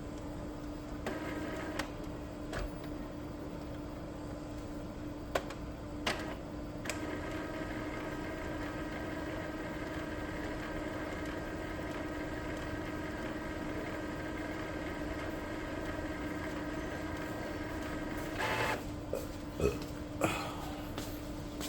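Epson L3256 inkjet printer running a gentle head-cleaning cycle to clear clogged black nozzles: a steady motor whir from several seconds in until near the end, with sharp clicks and clacks from the mechanism.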